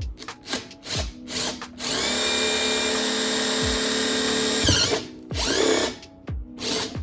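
A handheld power tool run in short bursts, then held for about three seconds at steady speed before winding down, then blipped twice more, over background music with a steady beat.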